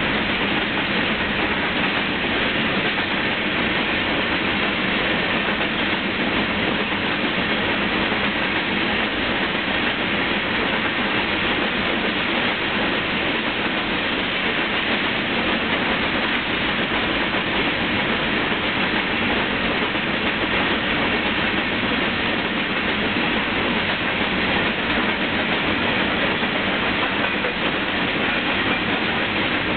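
Covered hopper cars of a freight grain train rolling past at close range: steady noise of steel wheels running on the rails, holding an even level throughout.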